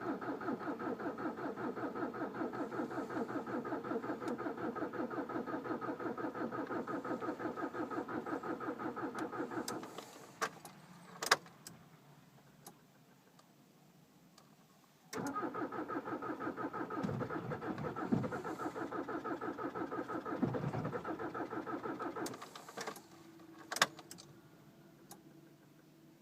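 Starter cranking a VW Jetta mk5 TDI turbodiesel in deep cold with a fast, even pulsing, for about ten seconds. A few clicks follow. Then a second crank of about seven seconds comes with some uneven surges, and the engine does not catch: a hard cold start at −25 °C.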